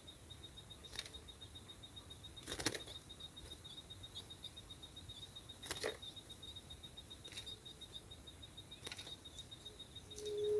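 A quiet pause between bird songs. A fast-pulsing, high insect-like buzz runs steadily underneath a handful of short, sharp clicks, the two loudest about 2.7 and 5.8 seconds in. A brief low steady tone comes near the end.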